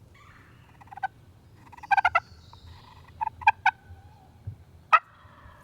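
Turkey calling: quick runs of short, sharp, pitched notes, three or four at a time, with a single note about a second in and another near the end.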